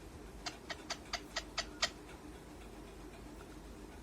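Pet parrot making a quick run of seven short, squeaky clicks, about four a second.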